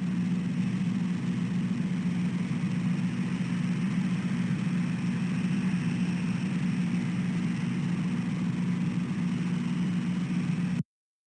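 A steady low mechanical hum with a faint hiss above it, cutting off suddenly near the end.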